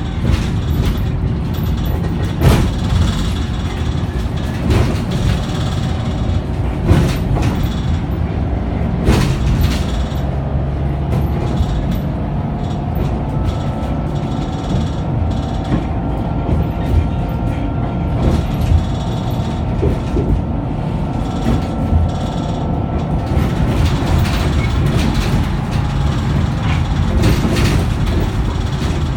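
Scania K94UB three-axle bus in motion: a steady engine rumble with frequent rattles and knocks from the body. A steady whine rises in about eleven seconds in and fades about twenty-three seconds in.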